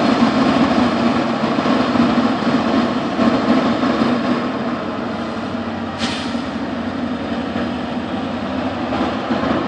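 Freight train with EMD GP38-2 diesel locomotives working to shove railcars up a steep grade: a steady rumble of engines and rolling wheels that slowly fades. A brief sharp high-pitched noise comes about six seconds in.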